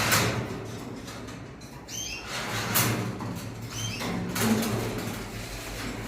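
Caged birds in a bird shop: wings flapping and rustling in several bursts, with short high chirps from a small bird about two seconds in and again about four seconds in, over a low steady hum.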